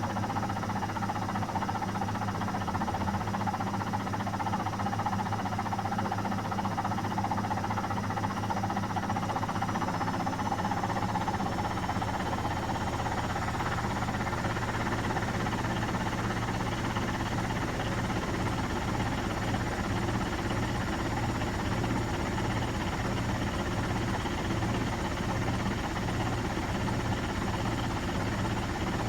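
Miele Professional WS5436 washing machine running steadily, its motor whine holding level. About ten seconds in, a high whine rises in pitch and a low, pulsing throb grows stronger after it.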